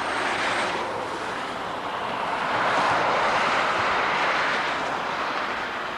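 Rushing vehicle noise with no clear engine note, swelling briefly just after the start and again, louder, about three seconds in before easing off.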